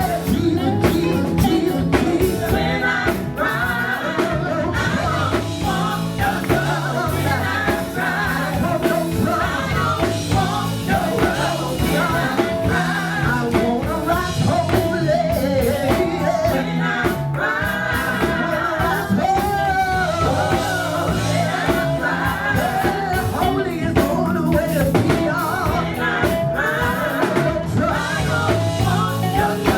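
Live gospel music: a group singing with band backing of drums and bass, the melody wavering over a steady beat.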